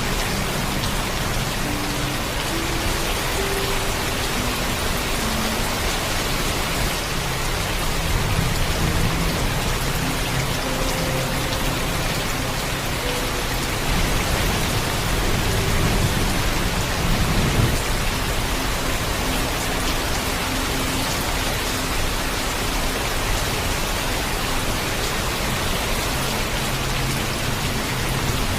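Steady heavy rainfall, with low rumbles of distant thunder swelling up twice, about eight seconds in and again from about fourteen to eighteen seconds.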